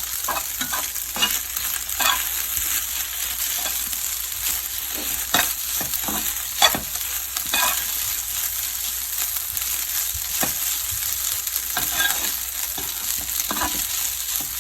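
Fried rice sizzling steadily in a hot oiled pan. A stirring utensil scrapes and knocks against the pan at irregular moments. The rice is nearly dry and is being fried until the grains turn loose and separate.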